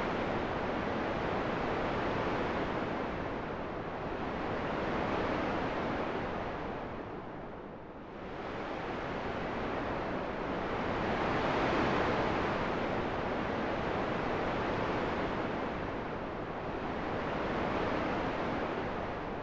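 Wind blowing in a steady rushing hiss that swells and eases in slow gusts every few seconds, dipping briefly about eight seconds in.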